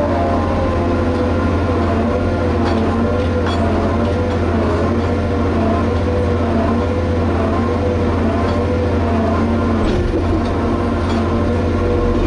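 Liebherr HS 8200 dragline excavator working: its engine runs steadily under load with a whine that slowly wavers up and down in pitch, and a few faint clanks.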